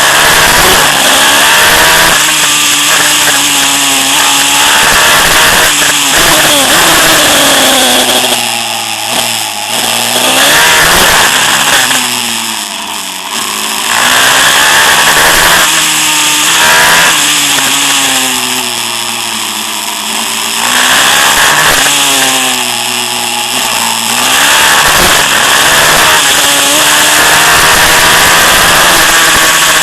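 Pit bike with a 190cc Daytona four-stroke single-cylinder engine being ridden hard, its engine note climbing and falling again and again as the throttle is opened and closed.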